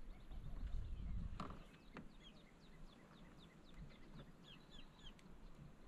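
A bird calling faintly in the marsh: a quick run of short falling notes, about four a second, starting about two seconds in.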